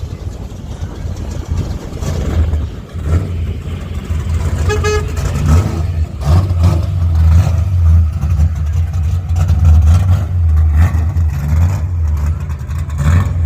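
Car engine running with a deep, steady low rumble that grows louder from about six seconds in. A short horn toot sounds about five seconds in.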